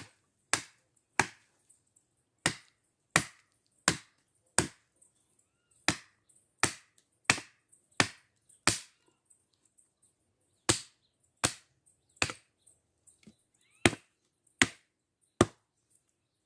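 Wood being chopped with a blade: sharp, regular strikes about every 0.7 s, in short runs with brief pauses between them.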